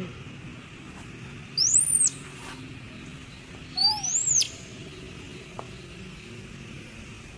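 Two short, high-pitched cries from a small young animal, each rising sharply and then dropping, about two seconds apart. It is crying from hunger and cold.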